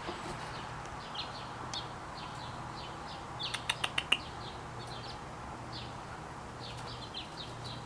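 Small birds chirping: short, high, falling chirps repeated throughout, with a quick run of about five sharp clicks about three and a half seconds in. A faint steady low hum underneath.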